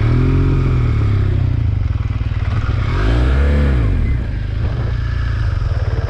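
Motorcycle engines running on the move, a steady low rumble with the engine note rising and falling twice, near the start and again about three seconds in.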